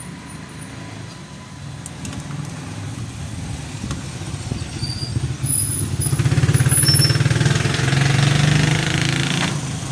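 A small engine running with a low, rapid pulsing, growing louder through the first half and loudest in the second half, with a hiss over it that cuts off near the end.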